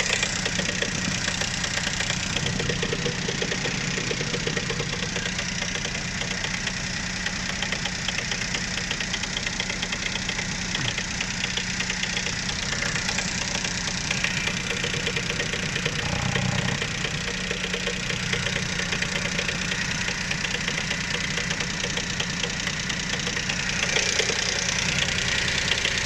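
Volkswagen up! 1.0 three-cylinder petrol engine, converted to LPG, idling steadily with a rapid, continuous knocking tick. The owner cannot identify the cause of the knock.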